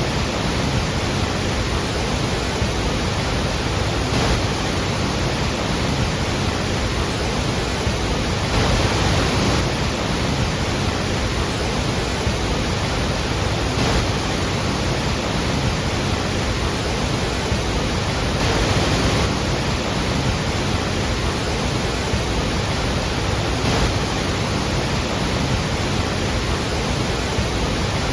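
Iguazú Falls: a large waterfall's steady roar of falling water, an even rushing that swells slightly every several seconds.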